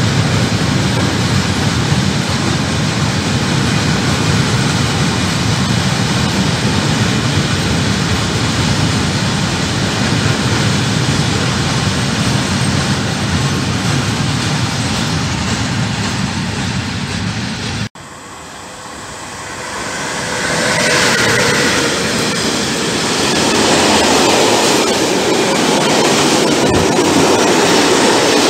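Freight trains passing: a long train of open wagons rolls by with a steady rolling noise of wheels on rail. After a sudden cut, a train of hopper wagons passes close by, its wheel and rail clatter growing louder, with a brief high squeal a few seconds after the cut.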